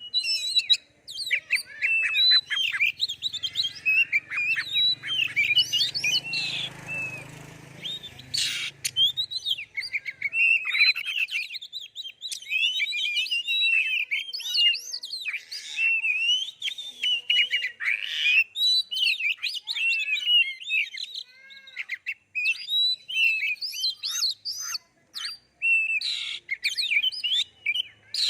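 Oriental magpie-robin (kacer) in full song: a long, nearly unbroken run of rapid, varied whistles and chirps, with a few harsh notes mixed in.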